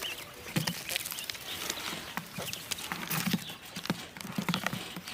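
Irregular clicking and tapping, a few knocks a second at uneven spacing, over a steady hiss.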